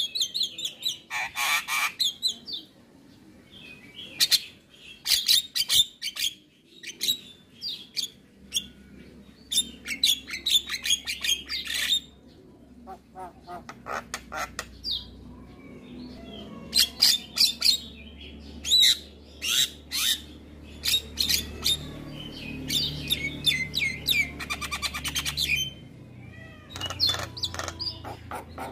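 Javan myna calling in quick runs of harsh squawks and chirps, with short pauses between the runs.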